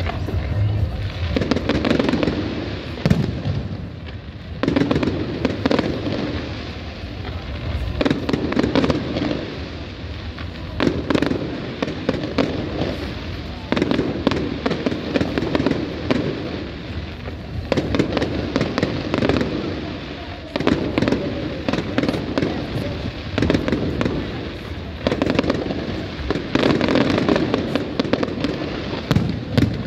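Aerial fireworks bursting: a dense, continuous run of sharp bangs and crackles.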